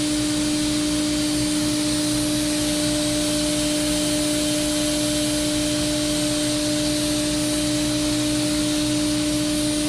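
Mazak HCN 4000-III horizontal machining center spindle free-running at its maximum 18,000 RPM with no cutting load: a steady high hum at the spindle's turning rate with a fainter overtone above it, over a constant airy hiss. It runs smoothly, and it sounds good to the inspector.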